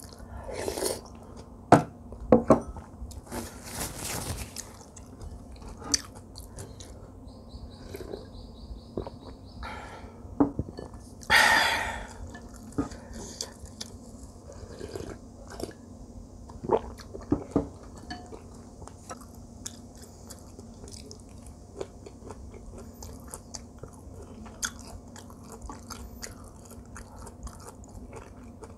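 Close-up chewing and crunching of rice and side dishes, with sharp clicks of utensils against bowls scattered throughout. A few louder, longer noisy bursts come in, the loudest about eleven seconds in.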